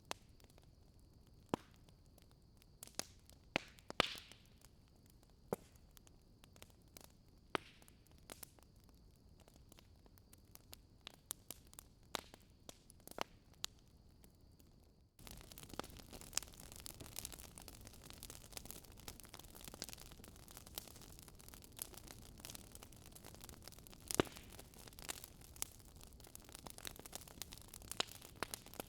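Wood fire crackling in a fireplace, with irregular sharp pops over a soft hiss. About halfway through, the hiss abruptly grows louder and the crackling becomes denser.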